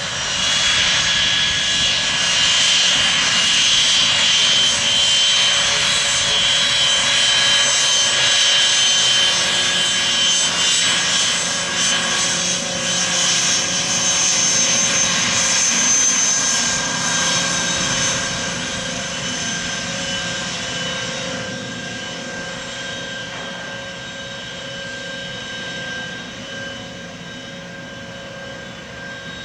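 Airplane engines running loud and steady for most of the first eighteen seconds, with a steady whine over the noise, then fading away as the plane moves off.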